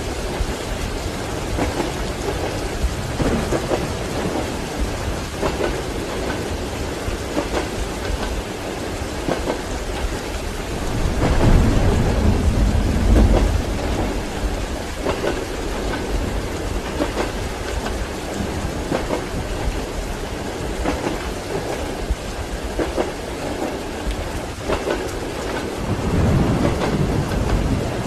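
Steady rain with thunder: a long low roll of thunder in the middle and another building near the end. Train wheels clack faintly underneath.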